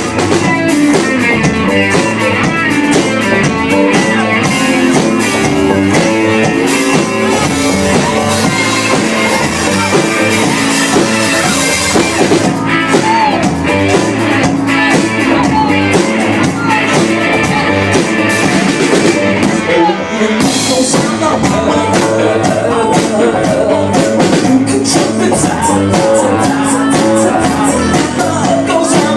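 A live band playing loud rock-style music with a steady drum beat and guitar, recorded on a phone in the room.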